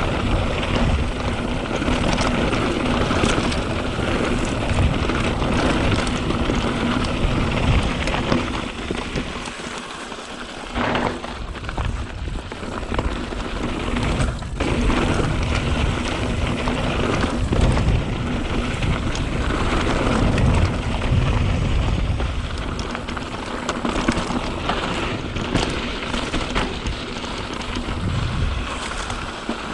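Mountain bike riding down a dirt trail: wind buffeting the rider-mounted microphone, tyres crunching on loose dirt and the bike rattling over the ground, with a brief lull about ten seconds in.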